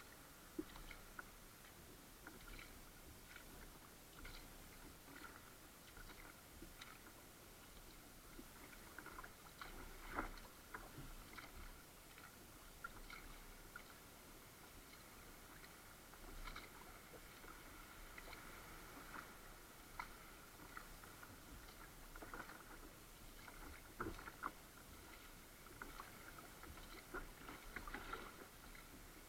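Faint sounds of a kayak being paddled on calm sea water: small splashes and drips at irregular intervals, with a few light knocks, the sharpest about ten seconds in and again near the end.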